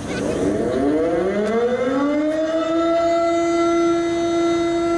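Siren winding up: its pitch rises over about two seconds, then holds one steady, sustained tone.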